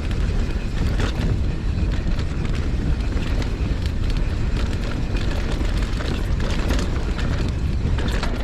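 Mountain bike riding down a rough dirt trail: steady wind rumble on the action camera's microphone, with the tyres and bike rattling and clattering over the ground.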